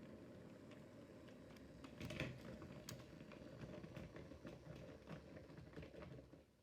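Model railway locomotive running on its track: a faint steady motor rumble with scattered light clicks from the wheels. It cuts off near the end.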